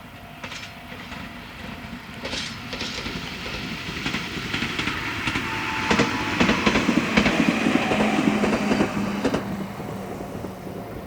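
Meitetsu Nishio Line local train running on the line, wheels clacking over rail joints in a string of sharp clicks. It grows louder to a peak in the second half, with a steady hum there, then eases off near the end.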